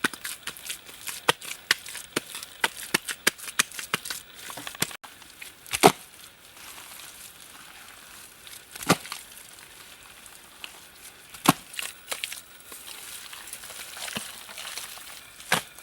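Wood being chopped by hand: a quick, irregular run of sharp chopping blows, then after about five seconds a single heavier blow every two to three seconds.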